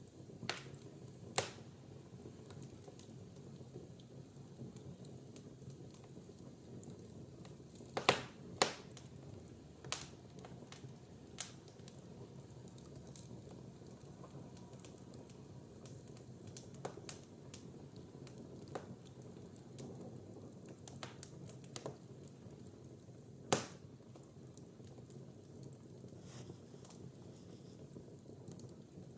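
Wood fire burning in a fireplace: a low steady hiss with scattered sharp crackles and pops at irregular intervals, the loudest pops about 8 and 23 seconds in.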